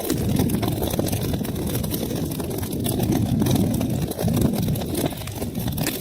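Wood fire burning in a fireplace: a steady low rumble of flames with many small, sharp crackles and pops throughout.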